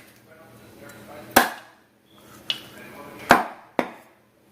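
A knife chopping down on a cutting board: four sharp chops spaced unevenly about a second apart, the second one lighter.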